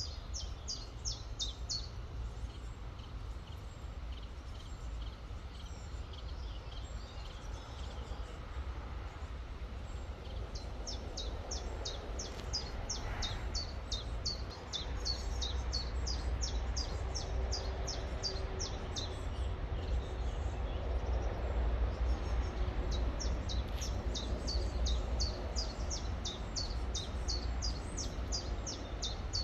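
A songbird singing long runs of quick, evenly repeated high chirps, a few a second, in three stretches, over the steady rushing of a river and a low rumble.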